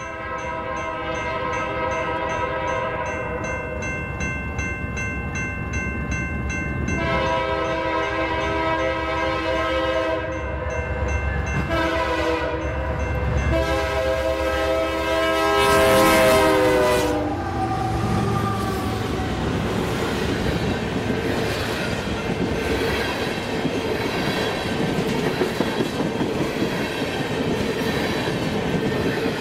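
Canadian Pacific SD70ACU 7044's horn sounding the grade-crossing pattern (two long blasts, a short and a final long) as the train approaches, the last blast dropping slightly in pitch as the locomotive passes. The train then rolls by, with wheels clicking over rail joints.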